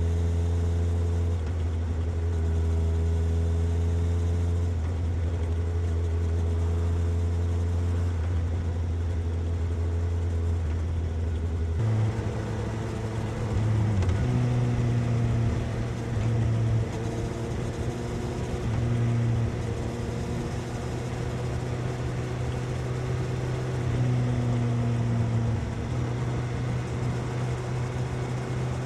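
Suzuki GSX-S750's inline-four engine and exhaust running under way, at first a steady low note. About halfway through, the note steps up in pitch, then rises and eases repeatedly with the throttle.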